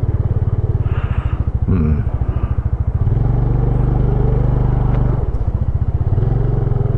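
Yamaha PG-1 single-cylinder four-stroke motorbike engine running at low speed with an even pulsing beat. It pulls harder and steadier from about three to five seconds in, and again near the end, as the throttle is opened.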